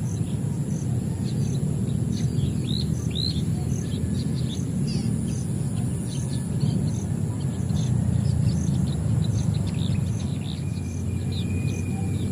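Small birds chirping in many short, quick high chirps over a steady high insect drone and an even insect pulse about two and a half times a second, with a loud, steady low rumble of background noise underneath.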